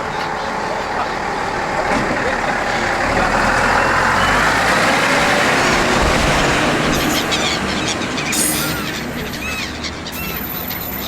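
A diesel railcar running past, a rumbling noise with a steady engine hum that swells to its loudest about four seconds in and then fades. Gulls call several times near the end.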